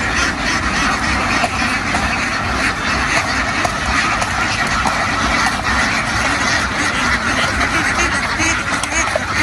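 A large flock of domestic ducks quacking all at once, a dense continuous din of overlapping calls.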